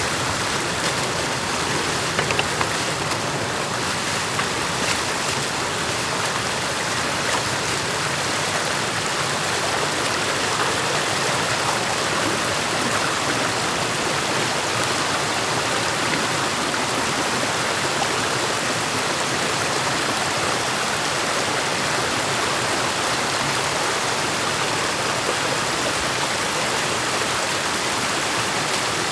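Stream water rushing steadily over and through a beaver dam, with a few light knocks about two seconds in.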